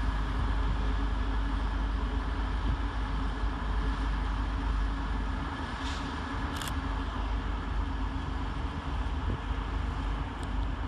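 Northern Class 195 diesel multiple unit's engines running steadily as it pulls out of the station, a low rumble with a hum. Two short hisses come about six seconds in.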